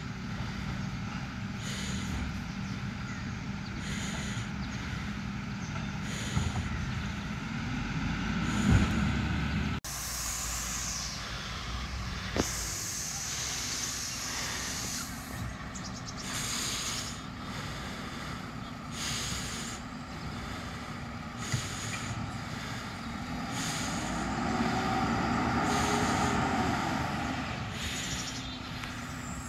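Mack LR automated side-loader garbage truck running, its engine droning steadily with bursts of air-brake hiss. Near the end the engine revs up and falls back.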